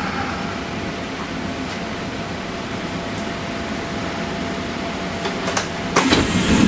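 Kintetsu 1252-series electric train standing at a station: a steady hum of the air conditioning and auxiliary equipment, with a faint steady tone and a few light clicks. A louder rushing noise starts about six seconds in.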